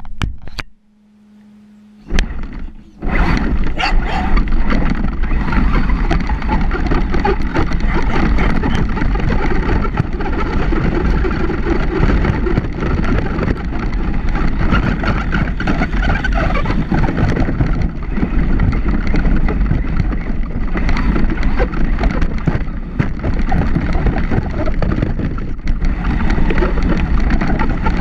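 Traxxas Slash 4x4 RC truck driving, heard from a camera mounted on it: a steady, loud rumble and rattle of the chassis and tyres over rough ground with wind on the microphone. It starts about three seconds in, after a short pause with a low hum and a couple of knocks.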